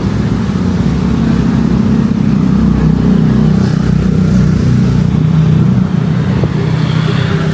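A motor vehicle engine running close by, a steady low hum.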